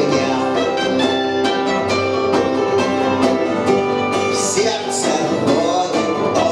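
Punk band playing live, guitar to the fore over a steady beat.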